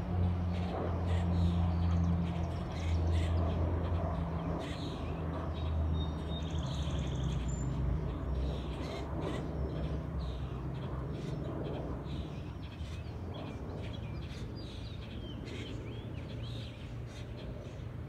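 Songbirds chirping in short, scattered calls over a steady low rumble that is loudest in the first half and eases off toward the end.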